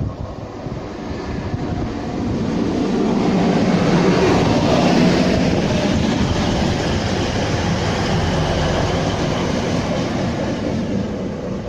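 A train passing close by. The rail noise builds over the first few seconds, is loudest about four to five seconds in, and stays loud before easing a little near the end.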